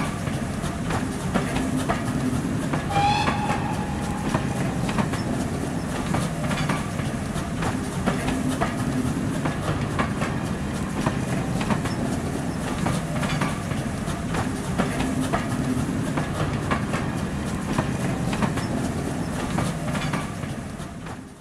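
A passenger train running past: a steady rumble with the regular clickety-clack of wheels over rail joints. A short falling tone sounds about three seconds in.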